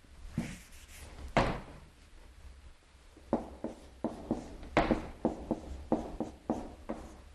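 Chinese characters being written by hand: two longer swishes in the first second and a half, then a quick run of short separate strokes, about two to three a second, from about three seconds in.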